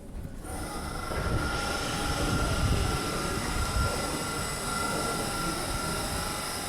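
Alstom NS-16 metro train heard from inside the car: the running noise comes up about half a second in, a rumble carrying several steady high whining tones.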